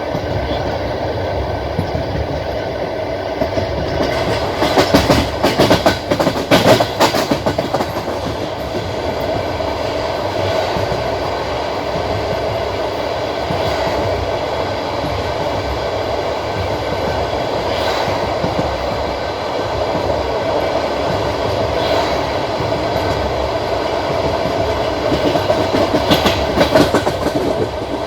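Passenger-train carriage wheels running on the track with a steady rumble. A dense run of wheel clacks over rail joints comes a few seconds in and again near the end, with single clacks every few seconds between.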